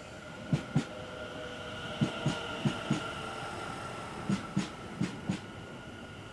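Electric multiple-unit train passing, its wheels clicking over a rail joint in quick pairs, a pair every half second to a second, over a steady high hum.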